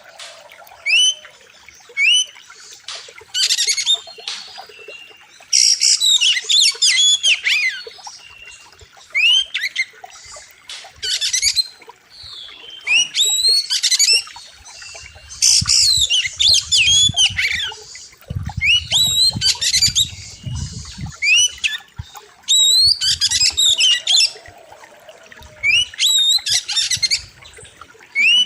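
Oriental magpie-robin (kacer) singing loudly, in repeated bursts of harsh, rapid, sweeping whistled phrases with short pauses between them. A low rumble runs underneath for several seconds in the middle.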